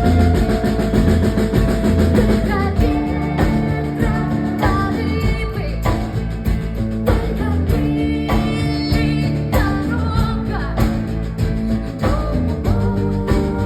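A live band playing a rock song, with guitar and drums and a melodic line on top.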